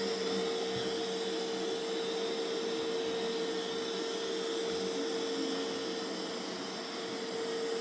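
Mova Z60 robot vacuum running steadily on carpet in vacuum-only mode, side brush stopped: a steady mid-pitched whine over an even rushing hiss.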